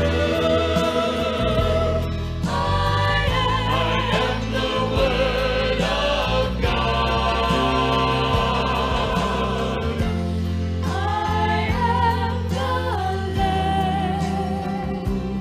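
Gospel vocal group singing with vibrato over steady instrumental accompaniment.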